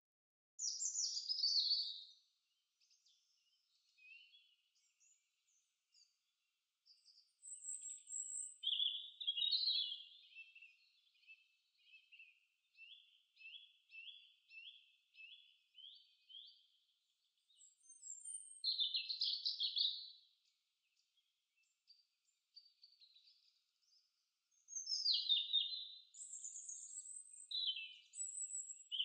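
Birds singing: varied high chirps and down-sweeping calls, with a run of evenly repeated trilled notes in the middle of the passage.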